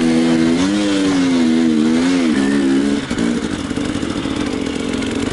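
Enduro motorcycle engine under way, its pitch swelling and falling twice with throttle changes. About three seconds in it drops to a lower, rougher, clattering run.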